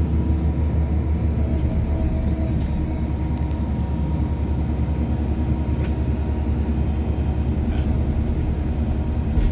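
Backhoe's diesel engine running steadily under load as the digging arm is worked through the levers to scoop soil.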